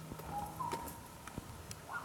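A bird giving a short two-note call, a lower note followed by a slightly higher one, repeated about every second and a half. Scattered sharp clicks sound with it.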